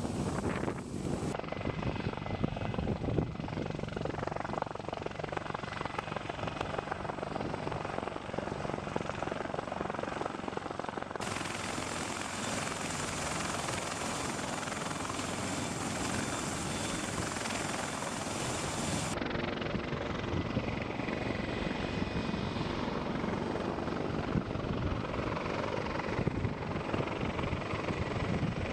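Large helicopter running steadily, a continuous rotor and turbine din that changes tone abruptly a few times as one recording gives way to another.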